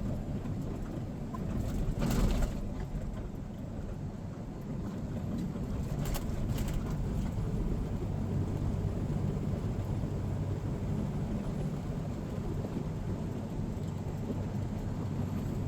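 Steady low rumble of a semi-truck's engine and road noise heard inside the cab while driving, with a couple of brief louder noises about two and six seconds in.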